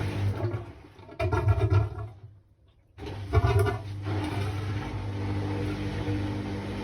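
Hoover washing machine running with a steady low motor hum. The hum dies away, a short loud surge comes about a second in, then near silence for about a second. Another surge follows and the steady hum returns.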